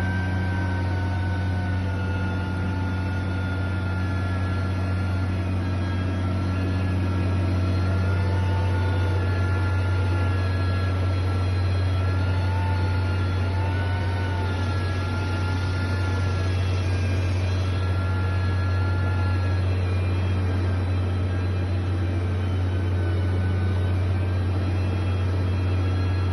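A heavy construction machine's engine running steadily: a constant low hum with faint, slightly wavering whines above it.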